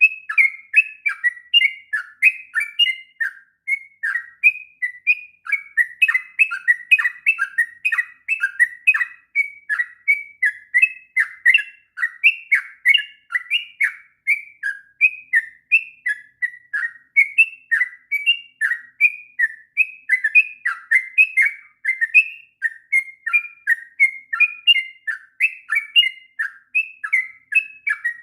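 Yellow-vented bulbul (trucuk) singing a long, unbroken run of quick, chattering whistled notes, several a second with no pauses: the continuous 'ngropel' song of a bird in full voice.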